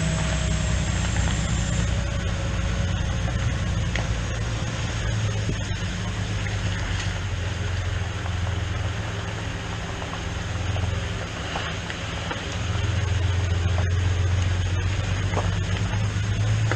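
Farm tractor engine running steadily under way, a low drone that grows a little louder about 13 seconds in.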